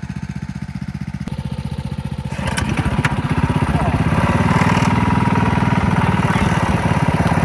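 Mini bike engine running with a fast, even firing pulse, getting louder about two and a half seconds in and then holding steady.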